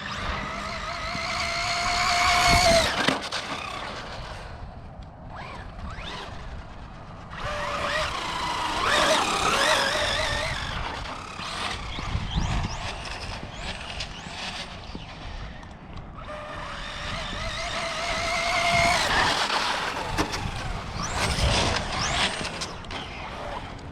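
Electric RC cars running hard: three long high motor whines climb in pitch as a car accelerates, each breaking off when the throttle is let go, over tyre noise on pavement. A few sharp knocks come in between.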